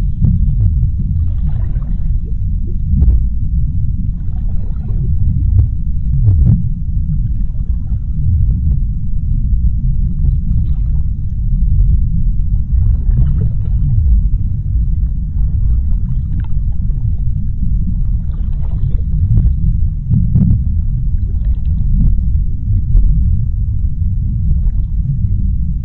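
Underwater ocean ambience: a dense, steady low rumble of water, with faint brief washes of higher sound rising over it every few seconds.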